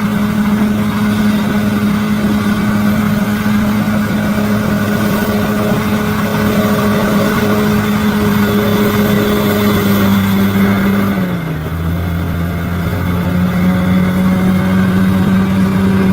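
Bulldozer's diesel engine running steadily under load; about eleven seconds in the engine note drops and briefly gets quieter, then holds at the lower pitch.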